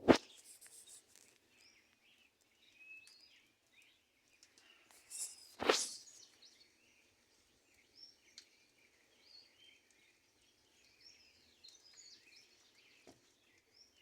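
Small birds chirping and calling. Two loud, sharp knocks cut through: one at the very start and one about six seconds in.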